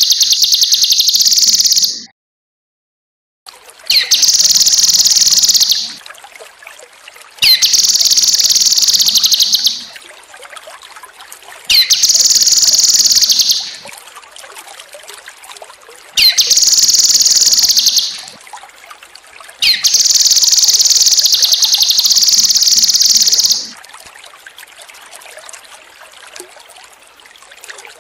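Cucak kinoi song: loud, high, rapidly trilled phrases about two seconds long, repeated six times with short pauses between them. Beneath them runs a faint trickle of water, which is heard alone over the last few seconds.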